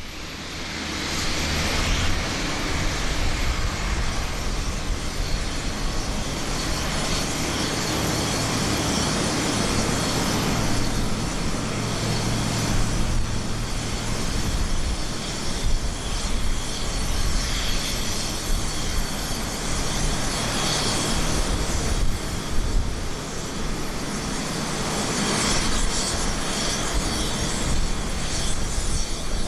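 Jet engine noise from a landing Airbus A350-900's Rolls-Royce Trent XWB turbofans: a steady rush with low rumble and thin high whining tones from the fans.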